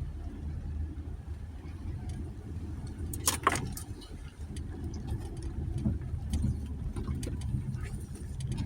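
2020 Jeep Gladiator's 3.6-litre V6 running low and steady as the truck crawls a rough dirt trail, heard from inside the cab. Light interior rattles tick throughout, with a sharp clatter a little over three seconds in.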